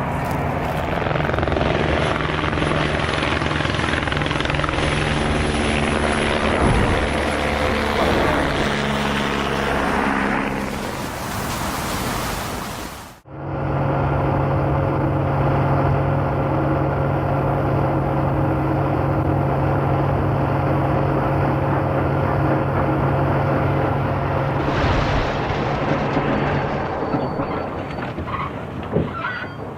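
Steady heavy engine drone, cut off abruptly about thirteen seconds in and replaced by a second, steadier engine drone that fades a few seconds before the end.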